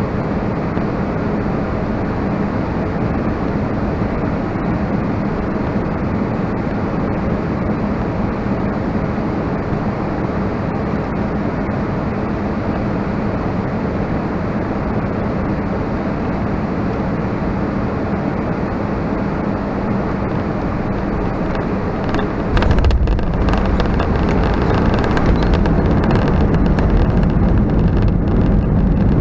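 Cabin noise of an Airbus A320-232 on final approach: a steady rush of airflow with a faint engine hum. About 22 seconds in, the sound jumps suddenly louder and lower as the wheels touch down firmly, and the rumble of the landing gear rolling on the runway carries on to the end.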